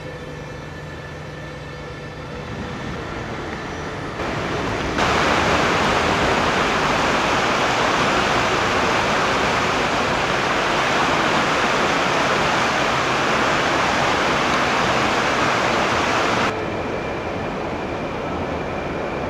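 Floodwater rushing hard, a steady loud roar of water. It jumps louder about five seconds in and drops back abruptly near the end.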